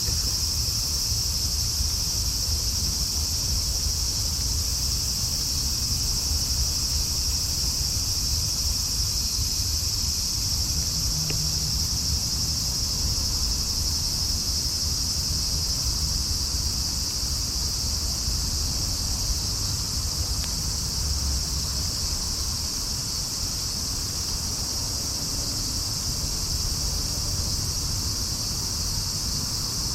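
Steady night-time chorus of crickets, a continuous high-pitched trilling that doesn't let up, over a low background rumble.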